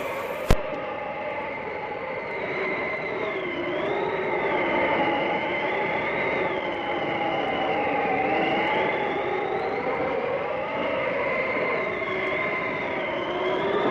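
Howling blizzard wind: several whistling tones that slowly waver up and down in pitch over a steady rush of noise. A single sharp click about half a second in.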